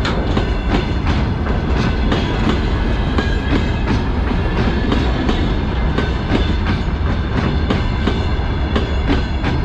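Freight train of open gondola wagons rolling past close by: a steady heavy rumble with frequent sharp clacks of wheels running over the rails, and a faint high ringing from the wheels and rails.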